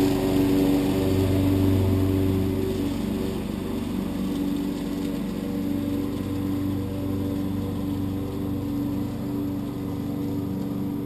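Husqvarna lawn tractor engine running steadily with the mower deck cutting and picking up leaves, a little louder in the first few seconds.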